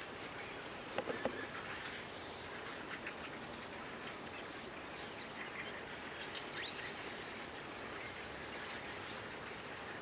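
Small birds giving scattered short, high chirps over a steady outdoor background hiss, with a quick cluster of sharp clicks about a second in.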